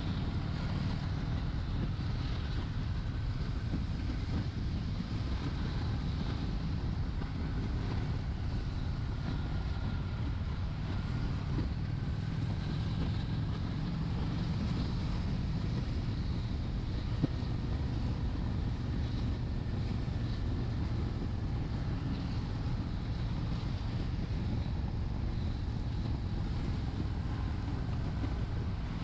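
Honda Shadow 750's V-twin engine running steadily at cruising speed, under wind noise on the microphone. A single sharp click a little past halfway.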